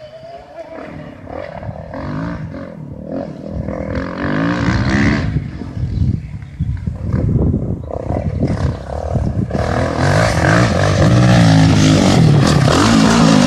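Motocross motorcycles racing on the track, their engines revving up and down in rapid swings. The sound builds and is loudest in the last few seconds as the bikes come close.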